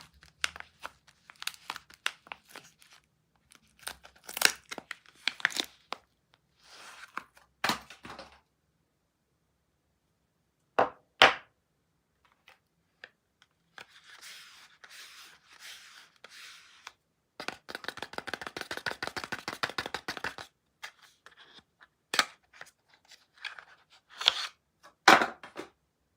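Soap packaging being unwrapped by hand: paper and plastic wrappers crinkling and tearing, with sharp cracks and clicks. Partway through comes a softer rustle, then about three seconds of rapid scratchy strokes.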